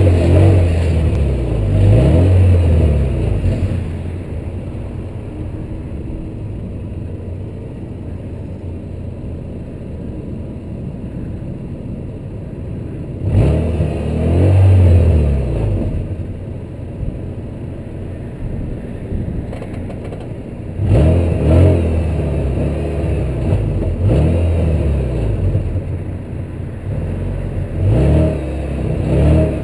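VW MK3 Golf's 2.0-litre ABA four-cylinder engine idling, revved up and back down several times: near the start, once about 13 seconds in, and in a run of blips from about 21 seconds on.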